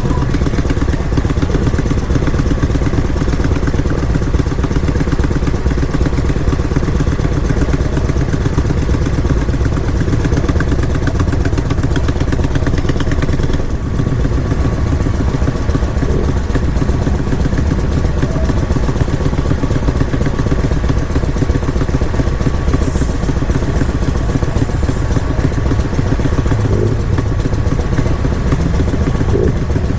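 Motorcycle engines running with a loud, continuous low rumble.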